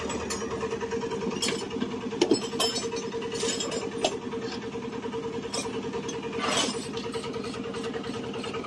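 A motor running steadily with an even hum, with several short metallic clicks and knocks scattered over it.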